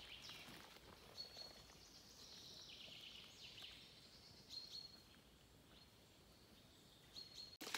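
Faint birdsong: short high chirps and brief trills from small birds scattered through it, over a quiet hiss of forest ambience.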